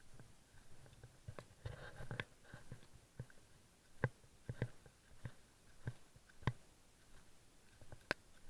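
Footsteps: a series of separate sharp steps or knocks, roughly one every half second to a second, some louder than others.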